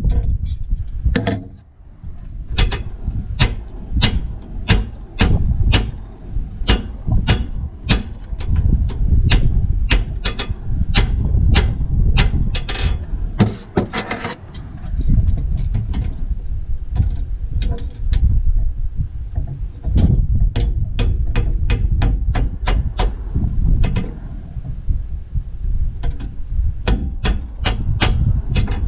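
Hammer blows, a sharp strike every half second or so with brief pauses, over a steady low rumble.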